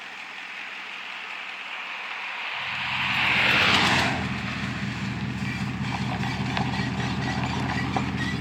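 A vehicle drives past, its noise swelling to a peak about three and a half seconds in and then fading. From about two and a half seconds in, an engine idles with a steady low hum.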